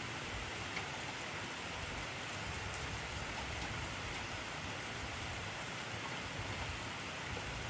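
Intense rain falling steadily: an even hiss with a few faint drop ticks.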